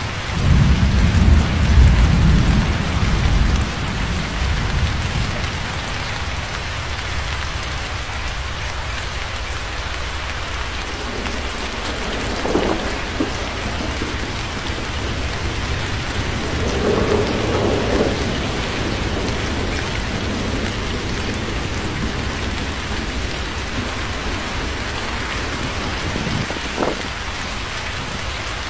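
Steady rain falling, with a low rumble of thunder in the first few seconds that fades out; the rain carries on evenly after it.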